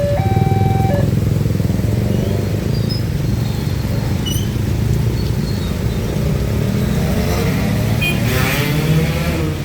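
Railway level-crossing warning alarm sounding its alternating two-tone signal, cutting off about a second in; then the steady low rumble of motorcycle and car engines running at the crossing.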